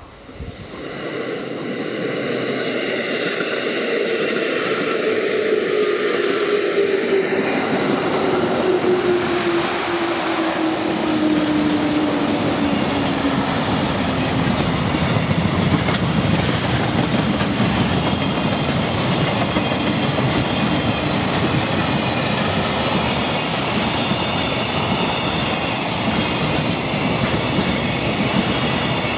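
An electric train passing close by, its wheels rumbling and clattering on the rails. The noise builds over the first few seconds and stays loud, with a whine that falls slowly in pitch over about ten seconds.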